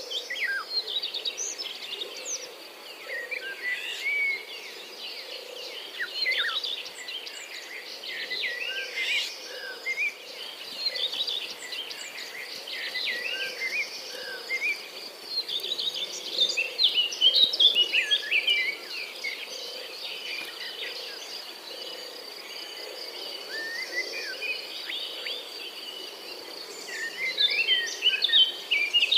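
Several songbirds singing and calling in a lively mix of short chirps and whistles, busiest about halfway through and near the end, over a steady high-pitched insect trill.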